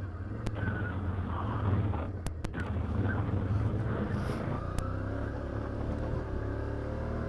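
Can-Am Outlander 850 XT ATV's V-twin engine running steadily while riding a trail, with a few sharp clicks, twice in quick succession about two and a half seconds in.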